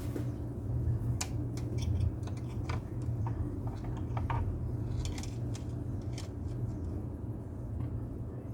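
A steady low hum with a string of small, sharp clicks and snips scattered through the first several seconds, as of small tools or parts being handled.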